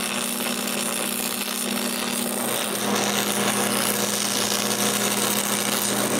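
Electric arc welding on steel hinge parts: a steady crackling hiss with a low hum from the welder underneath, the hum dropping lower about two and a half seconds in.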